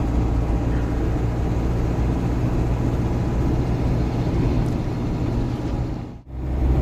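Steady drone of a GAZon Next truck's diesel engine and road noise inside the cab while driving. The sound drops out almost completely for a moment about six seconds in, then returns.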